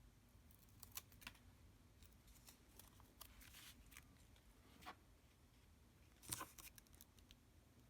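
Faint, scattered clicks and short rustles of paper and craft pieces being handled, with a sharper click a little past six seconds in.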